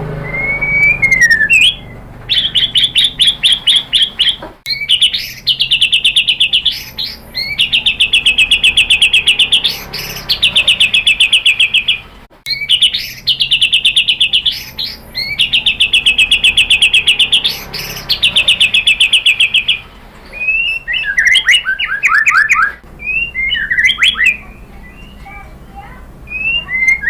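White-rumped shama (murai batu) singing: long, rapid, even trills of high notes in phrases of one to two seconds, repeated with short gaps. The song breaks into shorter, varied phrases about twenty seconds in.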